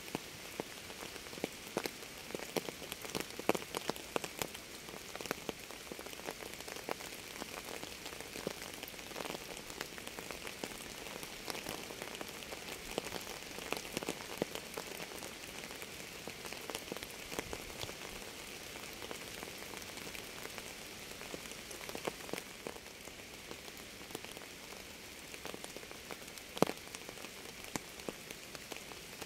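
Steady rain, with many separate drops striking a surface and one louder drop near the end.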